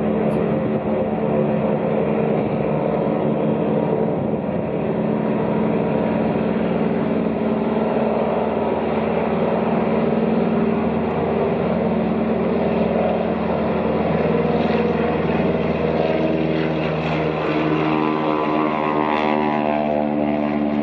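An engine running steadily, starting abruptly at a cut, its pitch shifting slightly in the last few seconds.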